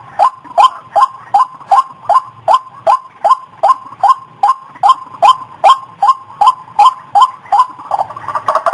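White-breasted waterhen calling: a monotonous run of short, identical notes repeated about two and a half times a second, quickening near the end.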